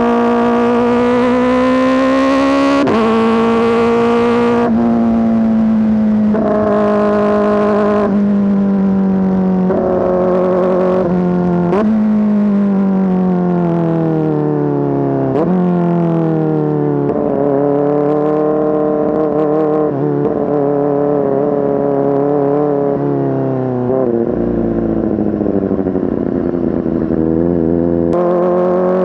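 Kawasaki ZX-4RR's 399 cc inline-four running loud through an SC-Project S1 exhaust under way. The revs climb over the first few seconds, then mostly sink slowly, with several sudden jumps up in pitch, the pattern of downshifting while slowing, and pick up again near the end.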